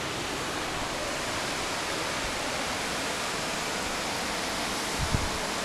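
Steady rushing roar of a large waterfall, the falling water a constant even hiss without change. A brief low thump about five seconds in.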